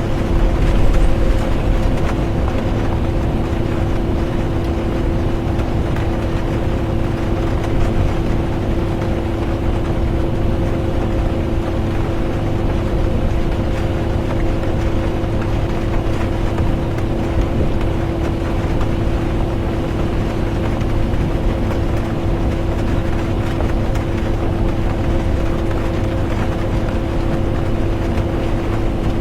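Inside a moving bus: steady engine and road rumble with a constant droning hum, and rain mixed in. There is a brief heavier rumble about a second in.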